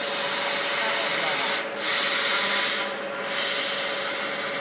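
5-axis CNC router running: a steady spindle tone under the rasping noise of the cutter working the material, which grows louder for a second or so about midway.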